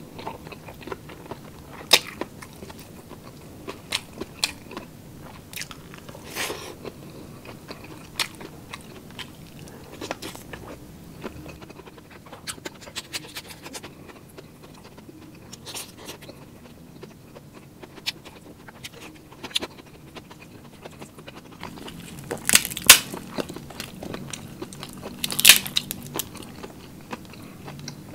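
A person chewing and biting food close to the microphone, with small wet mouth clicks all through. Two loud crunchy bites come near the end.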